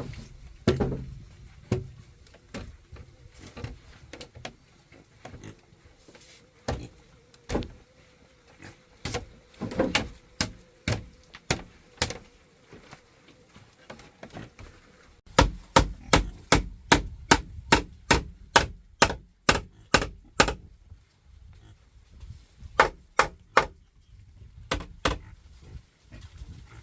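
Repeated chopping blows on wood: scattered strikes at first, then a quick run of about three strikes a second for around five seconds, then a few more.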